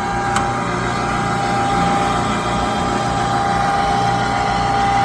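Gas furnace running through its start-up after being switched back on: a steady motor hum with a thin, high steady whine, and a single sharp click under half a second in. This is a furnace whose igniter glows but whose burners fail to light.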